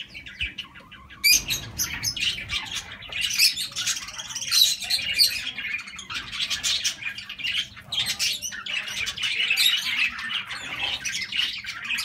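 Many birds chirping and squawking in a dense, high-pitched chorus that starts about a second in.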